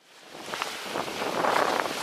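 Wind and sea surf washing, fading in from silence over the first half second.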